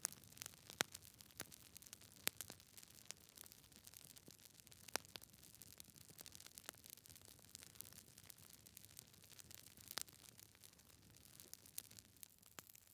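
Wood fire in a fireplace crackling: irregular sharp pops and snaps from burning logs over a faint steady hiss, a few pops standing out louder than the rest.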